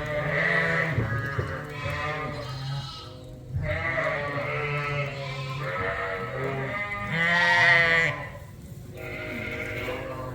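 A flock of sheep and lambs bleating, many calls overlapping in long stretches with two short lulls, loudest about three quarters of the way through.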